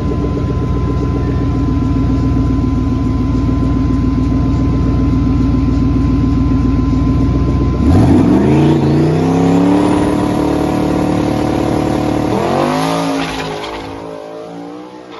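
Twin-turbo car engine held at steady revs for about eight seconds, then launching hard with the revs climbing fast. About four seconds later the pitch drops and climbs again at an upshift of the TH400 automatic, and the engine sound fades as the car pulls away.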